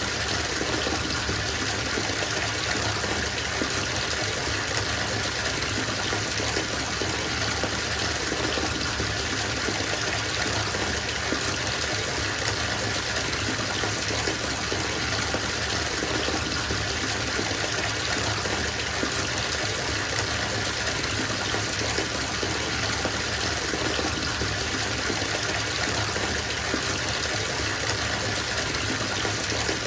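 Bathtub filling: water gushing from the tap into the tub with a steady, even splashing rush.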